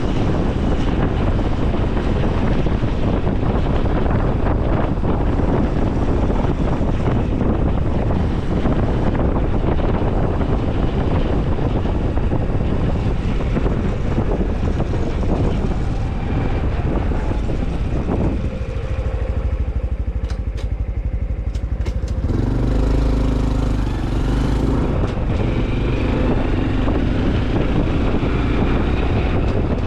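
Honda CT125 Hunter Cub's single-cylinder engine running under way, mixed with steady wind rush over the microphone. About two-thirds of the way through the wind drops away for a few seconds, with a few ticks, and the low engine note stands out on its own before the wind noise comes back.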